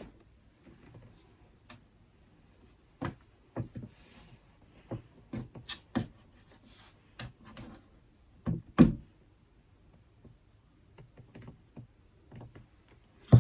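Irregular light knocks and taps of baking tools and dough being handled on a kitchen worktop, a dozen or so short strikes bunched between about three and nine seconds in, the loudest near the end of that stretch.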